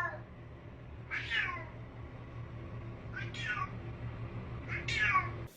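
Domestic cat meowing three times, a couple of seconds apart, each meow dropping in pitch at the end, over a faint steady low hum.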